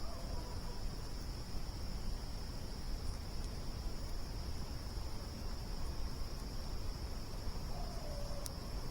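Steady chorus of crickets, an unbroken high trill, over a low rumble. One sharp pop comes near the end.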